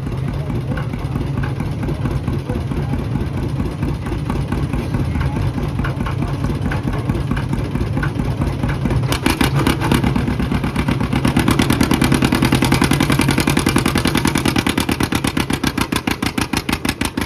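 Antique farm tractor engine run hard while pulling a weighted sled, its exhaust beat getting louder about nine seconds in. Near the end the firing beats slow and stand out one by one as the engine lugs down under the load, short of a full pull.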